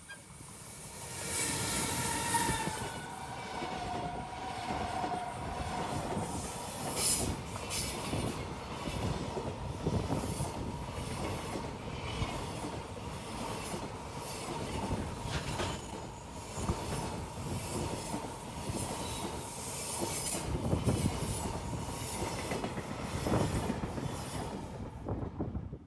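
Freight train hauled by an EH200 electric locomotive passing, its wagon wheels clacking rhythmically over the rail joints, with a brief high wheel squeal about 18 seconds in.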